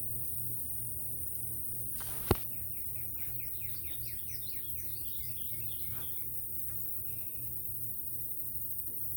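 A bird singing a quick run of short falling chirps for a couple of seconds, over a steady low hum. A single sharp click just before the song is the loudest sound.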